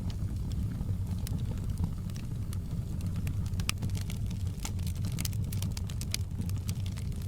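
Wood fire burning in a fireplace: a steady low rumble of flames with frequent sharp crackles and pops, which come thickest about halfway through.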